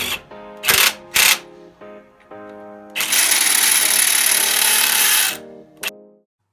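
Impact wrench running on wheel nuts in two short bursts and then one longer run of about two seconds, over background music. Everything cuts off just before the end.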